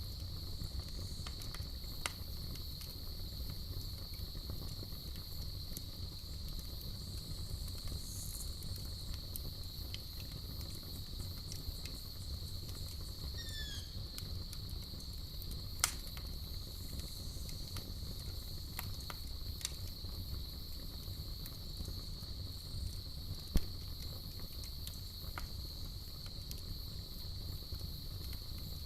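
Crickets trilling without a break over a burning campfire, which gives a low rumble and a scattering of sharp crackles and pops, two of them louder than the rest.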